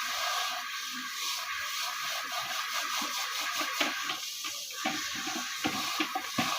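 Water running in a steady hiss while things are being washed, with short splashes and knocks through it, more of them in the second half.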